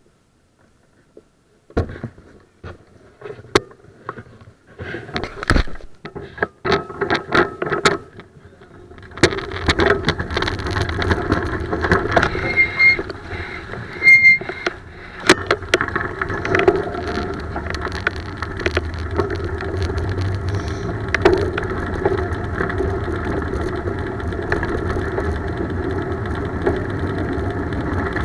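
Scattered clicks and knocks, then, from about nine seconds in, the steady rumble and hiss of a bicycle ride under way: tyres on the road and wind, with two short high beeps partway through.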